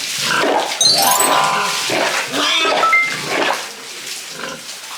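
Animal calls over music, with a sharp rising squeal about a second in.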